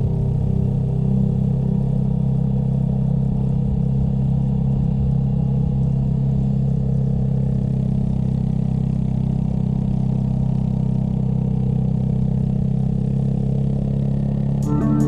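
Motorcycle engine running at a steady pace under way. About half a second before the end, guitar music comes in.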